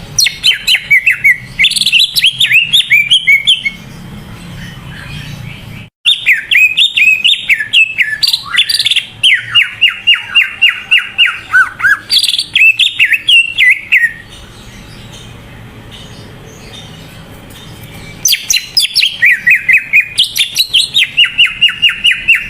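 Cucak ijo (a green leafbird, Chloropsis) singing vigorously (gacor): three long bursts of rapid, sharp falling notes, with a pause of a few seconds between bursts.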